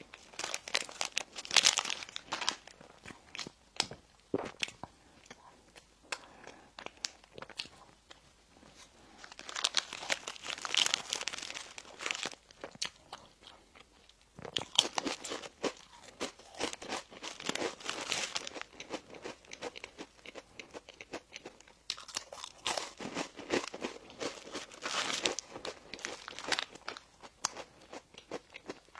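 Close-miked eating of bakery breads and pastries: crunchy bites and chewing in several bouts of dense crackling, with quieter pauses between.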